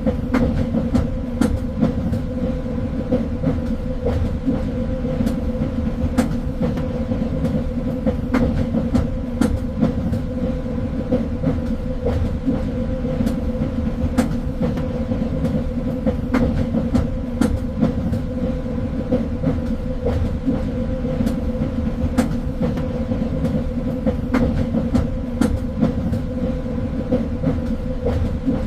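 Train running along the track: a steady low rumble with a constant hum, broken by sharp clicks and knocks from the wheels at irregular intervals.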